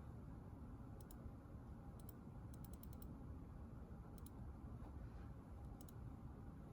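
Faint keystrokes on a computer keyboard over a low, steady room hum: single taps about a second and two seconds in, a quick run of about six just before three seconds, then a few more around four and six seconds.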